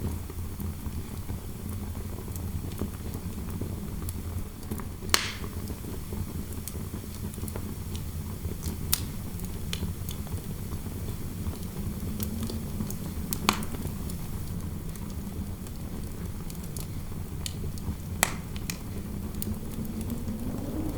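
Fireplace fire crackling, with a handful of sharp pops, over a steady low rumble of wind howling through a room; the wind's pitch rises a little near the end.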